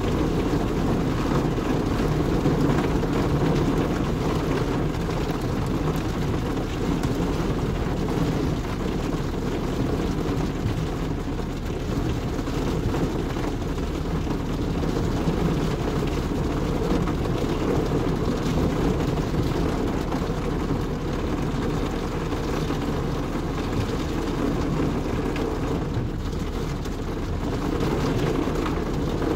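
Steady rain falling on a car's roof and windscreen, heard from inside the cabin: a continuous, even rushing heaviest in the low range, with no single loud strike.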